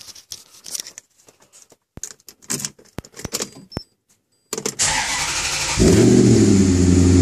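A few scattered clicks, then the Maserati Coupe's V8 is cranked by the starter about four and a half seconds in. It catches just before six seconds and settles into a loud, steady idle through a Fabspeed muffler bypass with straight-through exhaust.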